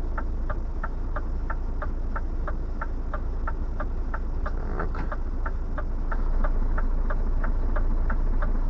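Truck cab turn-signal relay ticking evenly, about four ticks a second, over the low, steady drone of the idling diesel engine, which grows a little louder about six seconds in.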